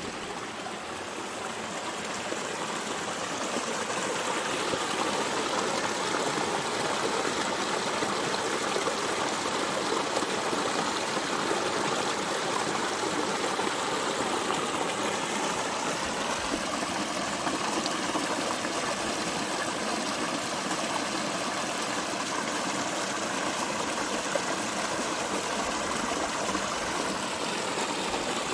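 Spring-fed mountain stream running over rocks: a steady rush of flowing water, swelling a little over the first few seconds.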